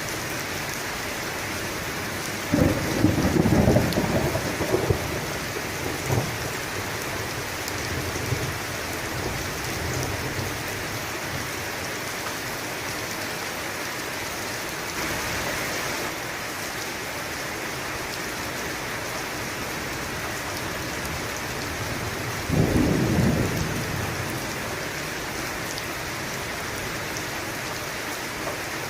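Steady rain with thunder rumbling twice: a longer rumble about two and a half seconds in and a shorter one about twenty-two seconds in.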